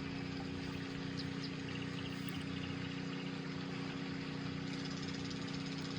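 Steady mechanical hum with several fixed tones, like a fan or small appliance motor running, with a few faint light ticks.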